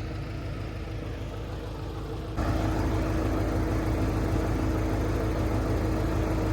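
Engine of a piece of heavy equipment running steadily, getting abruptly louder about two and a half seconds in and then holding steady.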